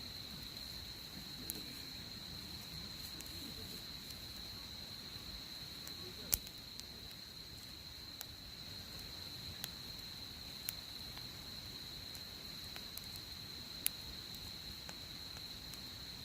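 Campfire crackling with a handful of sharp, isolated pops, the loudest about six seconds in, over a steady high-pitched insect trill.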